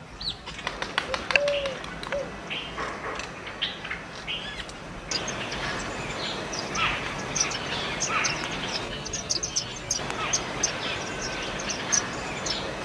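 Several small backyard birds chirping and tweeting in short, frequent calls, with a low soft call about a second in and a few sharp clicks in the first two seconds.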